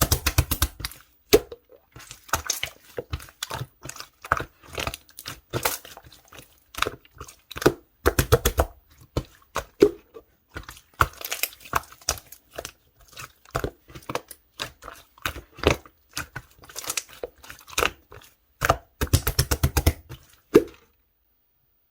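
Orange clear slime being squished and pressed by hand, giving off crackling clicks and pops as trapped air bursts, with several quick runs of rapid clicks. The sounds stop about a second before the end.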